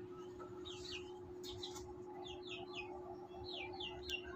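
Birds chirping: many short, falling chirps, mostly in quick runs of two or three, over a faint steady hum.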